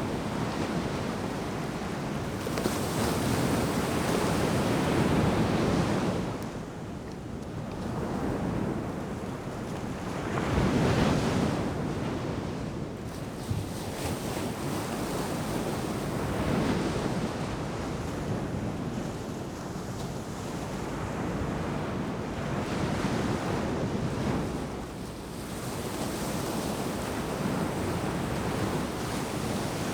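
Ocean surf breaking and washing up the beach, a continuous rush that swells and ebbs every few seconds, loudest about three to six seconds in and again about eleven seconds in.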